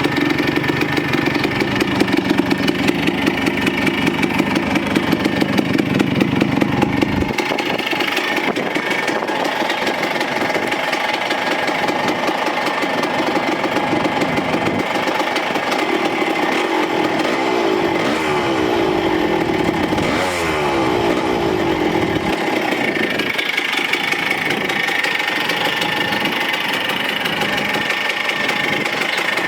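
1976 Kawasaki KE125's single-cylinder two-stroke engine running, which the owner reports as in top form. About seven seconds in the deep low end drops away, and midway the revs rise and fall a few times.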